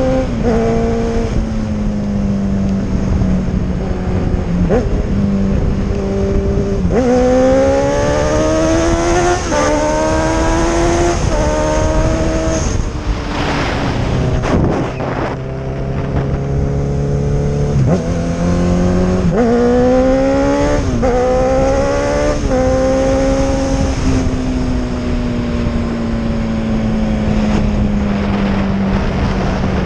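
Honda CB1000R inline-four with an aftermarket sport exhaust, revving up through the gears twice. The pitch climbs and drops back at each upshift, with a brief rush of noise and a steady low running note between the two pulls. Near the end the engine eases off, its pitch falling slowly.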